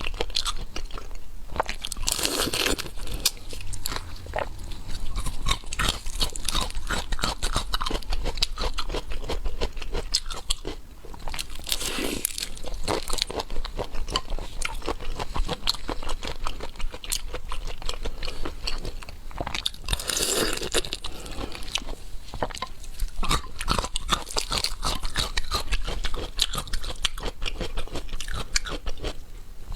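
Close-miked chewing and crunching of seafood, dense with sharp crunches and clicks, with a few louder swells about 2, 12 and 20 seconds in.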